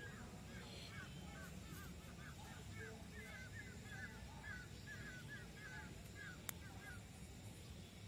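A bird calling over and over in short, curved notes, about three a second, stopping about a second before the end. A single sharp click comes shortly before the calls stop.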